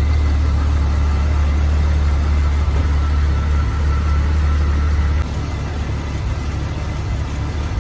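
Jeep Cherokee XJ engine idling steadily, a low drone that steps down in level about five seconds in.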